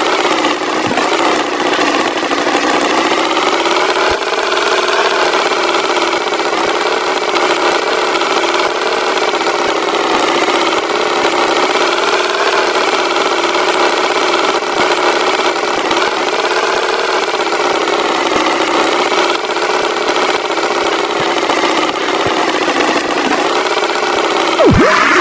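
Tractor engine running steadily, its pitch wavering slightly up and down.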